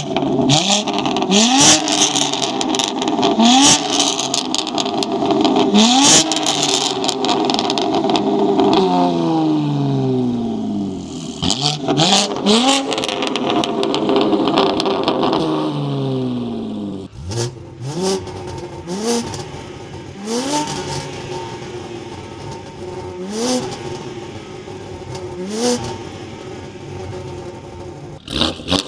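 BMW G80 M3's twin-turbo S58 inline-six, fitted with an equal-length X-pipe catback exhaust and 3.5-inch downpipes, being revved over and over. There are several quick blips, then a few longer revs that fall slowly back down, then a run of shorter, quieter blips about every second and a half.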